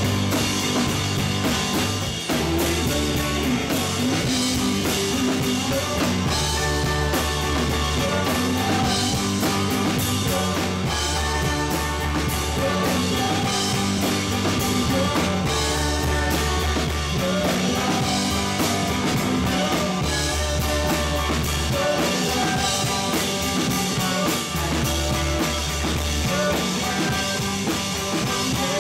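Live rock band playing an instrumental passage: electric guitar, bass and drum kit.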